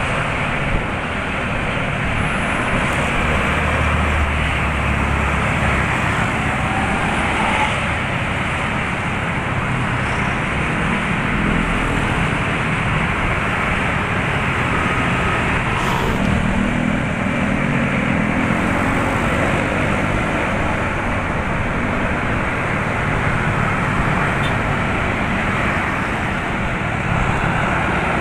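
A bus's diesel engine running steadily with road noise, a low hum swelling about four seconds in.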